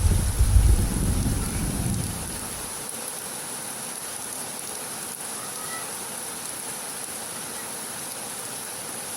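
Heavy rain falling steadily. A low rumble of thunder dies away over the first two seconds or so.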